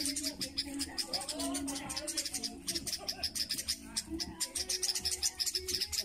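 Small birds giving a rapid, unbroken series of short, high-pitched chirps around their nest while a nestling is held: agitated alarm calling.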